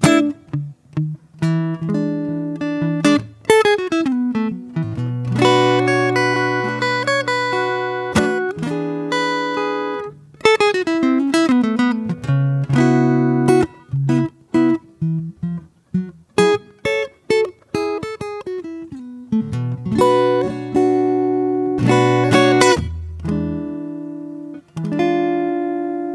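Solo acoustic guitar playing slow improvised fingerpicked phrases and chords, notes left ringing between pauses; a final chord rings out and fades near the end.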